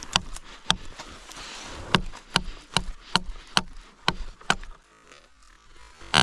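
Knife blade chopping at a small tree branch to cut a stick: a quick series of sharp wooden knocks, about two to three a second, then a pause and one harder blow near the end.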